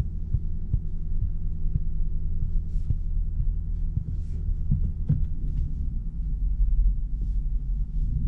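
Lexus LC 500's 5.0-litre V8 running at low speed: a steady low throbbing rumble, with a few light clicks over it.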